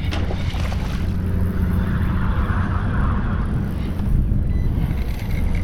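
Wind buffeting the microphone, a steady low rumble, with a brief soft hiss of water about two seconds in.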